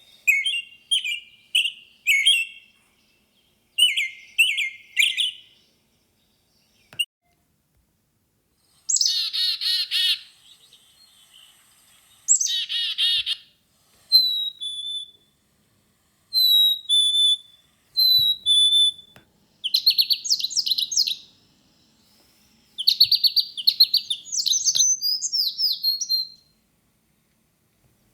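Birds singing and calling in a changing series: quick groups of high chirps at first, then after a short pause two buzzy, rasping calls, then a run of repeated two-note whistled calls, and fast trilled songs toward the end.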